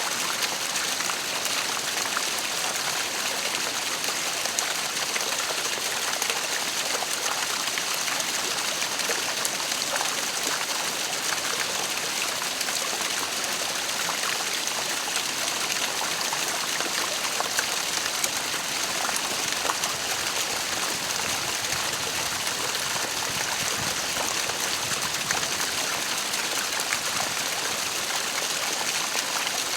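Waterfall: water falling and splashing steadily, with many small splashes throughout.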